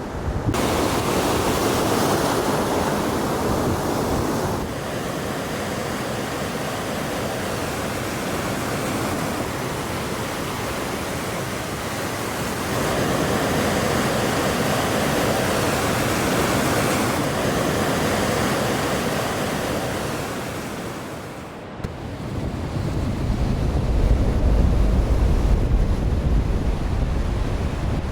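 Ocean waves and surf breaking, a steady wash with wind noise on the microphone. The sound changes abruptly a few times, and heavy low wind buffeting takes over in the last several seconds.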